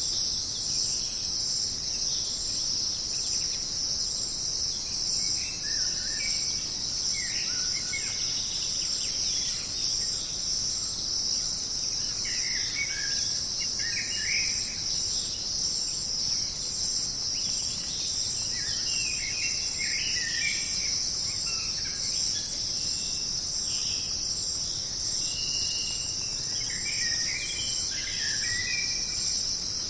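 Jungle ambience: a steady, high-pitched chorus of insects such as crickets, with short bird calls breaking in every few seconds.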